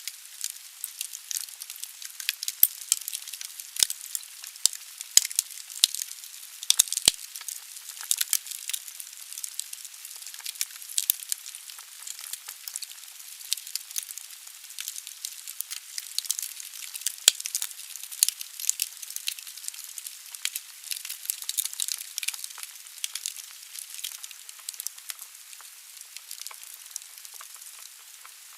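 Wood fire burning in a fireplace: a steady hiss of flames with frequent sharp crackles and pops of the burning logs, a few louder snaps among them.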